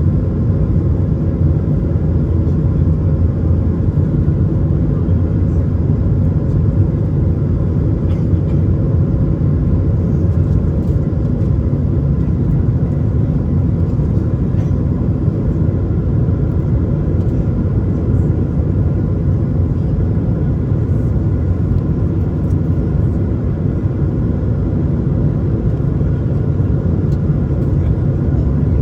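Steady cabin noise inside an Airbus A220: a deep, even rumble of its Pratt & Whitney PW1500G geared turbofans and airflow, with faint steady whining tones above it.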